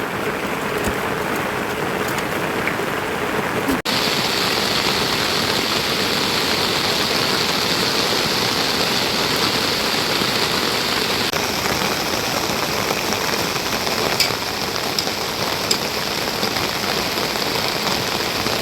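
Steady rain falling, an even hiss that briefly cuts out about four seconds in.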